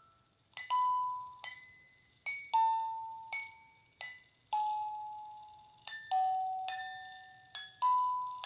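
Slow lullaby melody played on bell-like chimes: single struck notes, about one or two a second, each ringing clearly and fading away before the next.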